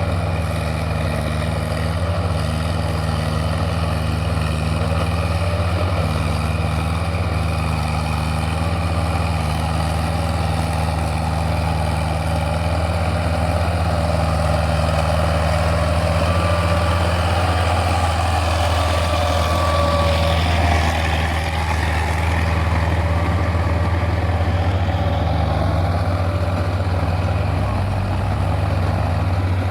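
Tractor engine running steadily under a constant load, with a brief extra higher tone around the middle.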